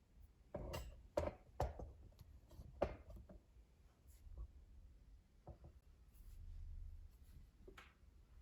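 A few sharp light knocks and clicks in the first three seconds, then fainter scattered ticks and a brief low hum near the end.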